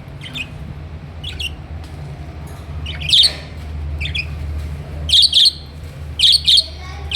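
Budgerigars giving short, sharp chirping squawks, one at a time and then in quick pairs, with the loudest call about three seconds in.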